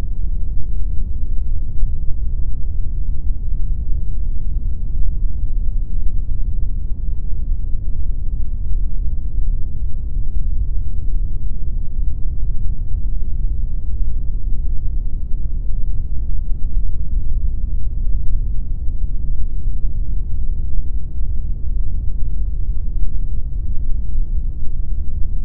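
Steady pink noise: a constant, even rushing hiss, heaviest in the low end, that never changes.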